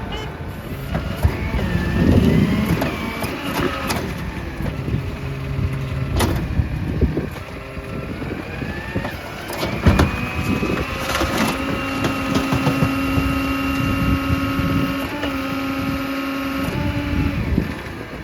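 Rear-loader garbage truck running through a packing cycle on heavy recycling: the engine revs up, there are a couple of sharp knocks, and a steady hydraulic whine holds for several seconds in the second half before cutting off.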